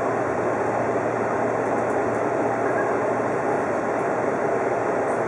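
Odakyu 50000-series VSE Romancecar running along the track, heard from inside its front car: a steady, even rumble of wheels on rail.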